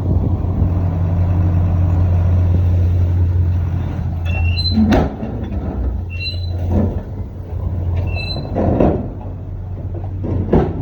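Dump truck engine running steadily with a low hum while unloading soil. From about four seconds in, a short high two-note beep sounds three times about two seconds apart, and several knocks or thumps come near the middle and end.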